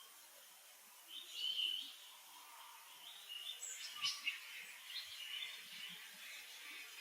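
High-pitched chirping animal calls over faint outdoor background noise: one louder, longer call about a second and a half in, then a quick run of short chirps around the middle.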